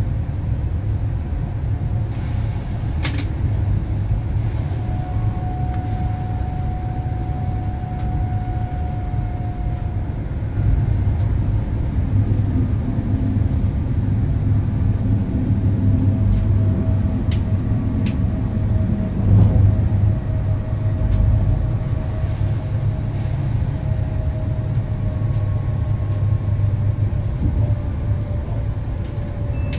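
Electric train running along the track, heard from the driver's cab: a steady low rumble with a faint high tone drifting through it and a few sharp ticks.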